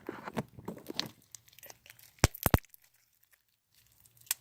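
Homemade slime being squeezed and stretched by hand, giving off crackles and sharp pops, with three loud pops close together about halfway through and another near the end.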